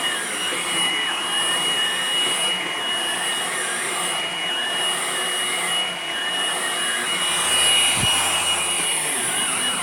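Hoover vacuum cleaner running steadily with a newly fitted brush roll, a constant rush of air with a steady high whine over it.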